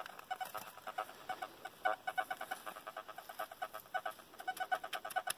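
Handheld metal-detecting pinpointer beeping in rapid, uneven pulses at one pitch while it is worked over a buried iron target, the beeps coming faster as it closes in.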